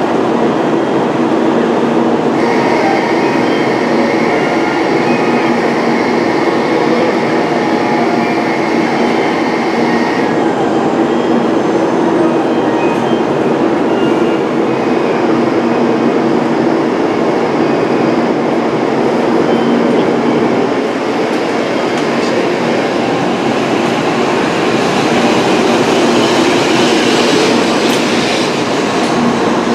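Tokaido Shinkansen train running at the platform: a loud, steady rumble of wheels and running gear, with a high electric whine that comes and goes.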